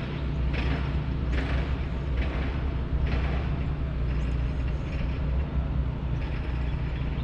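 A boat's engine running steadily underway, with rushes of noise about once a second.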